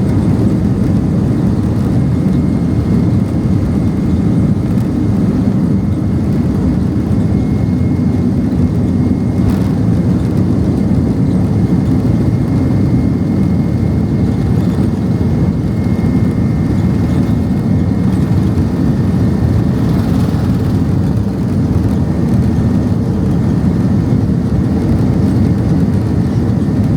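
Boeing 767-300ER cabin noise heard from a window seat during lift-off and initial climb: a steady, deep engine noise at takeoff thrust. A faint high tone runs through the middle, and there is a single brief knock about nine and a half seconds in.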